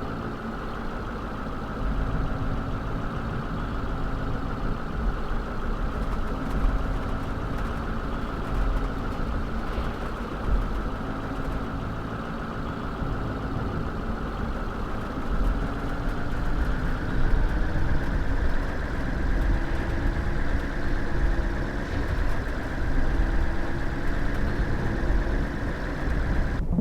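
A vehicle engine running steadily under a deep continuous rumble, with a few steady hums of slowly shifting pitch.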